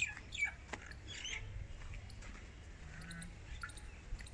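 Birds chirping and calling in short, scattered notes, over a low steady rumble.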